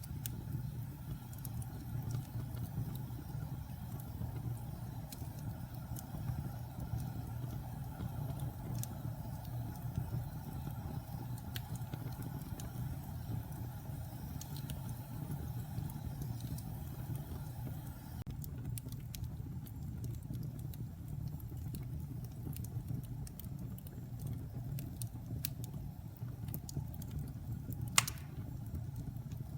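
Wood fire burning in a fireplace: a steady low roar with scattered crackles that come more often in the second half, and one sharper pop near the end.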